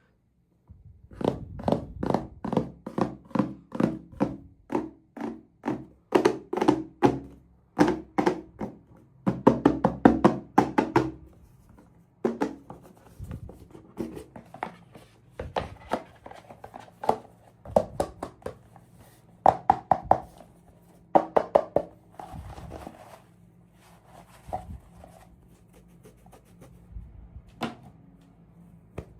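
Small plastic pieces and toy packaging being handled: runs of quick knocks and clacks, dense through the first half and sparser towards the end.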